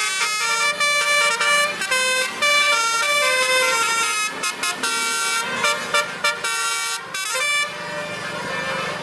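Basuri truck air horns playing a quick melody, the pitch stepping from note to note several times a second, with a few held notes over a hiss of air near the end.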